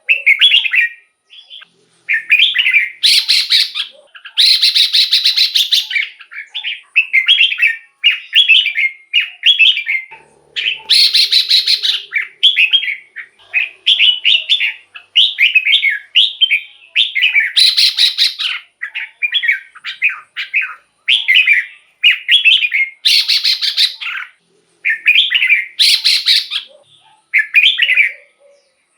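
Red-whiskered bulbul singing a run of short, quick whistled phrases with hardly a pause. Longer harsh, buzzy calls break in six times.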